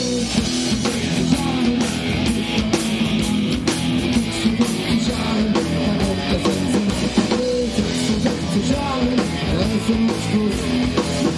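Live punk-rock band playing an instrumental passage between sung lines: guitar over drums and bass, loud and steady.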